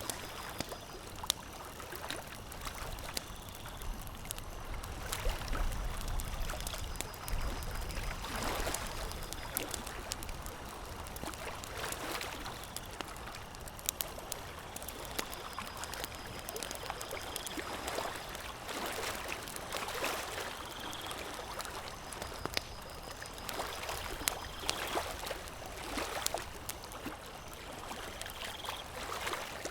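Lake water lapping in irregular washes that swell every few seconds, with scattered sharp crackles of a campfire.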